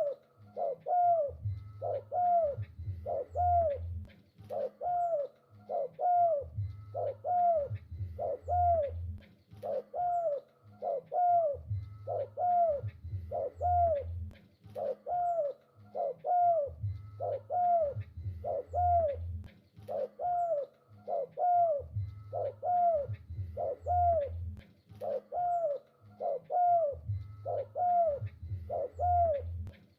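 Spotted dove (tekukur) cooing in repeated phrases, one about every five seconds, with a steady run of short higher notes a little more often than once a second.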